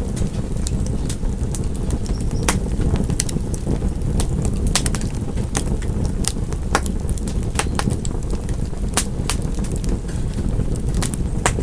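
Wood fire crackling: a steady low rumble of burning with irregular sharp pops and snaps, several a second at times.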